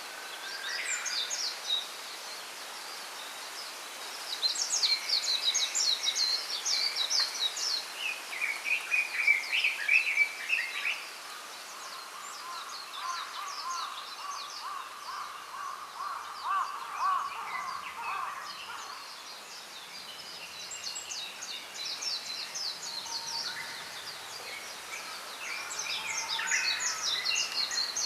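Several small songbirds singing in quick, rapidly repeated phrases, one after another: some high and trilling, one lower series in the middle, over a faint steady hiss.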